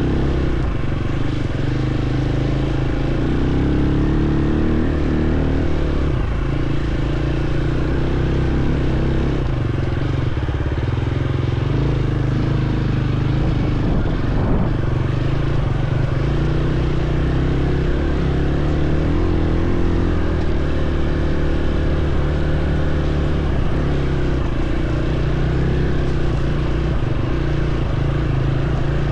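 Dirt bike engine running under way, its pitch shifting up and down a little as the revs change.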